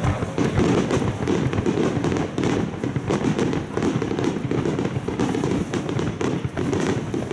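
Aerial firework shells bursting in a rapid, continuous barrage of overlapping bangs and crackle with no gaps: the rapid-fire wide starmine of a display's finale.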